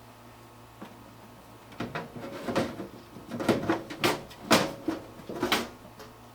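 Handling the parts of an open desktop computer case: a run of sharp knocks, clicks and clatter, starting about two seconds in and ending near the end, over a steady low hum.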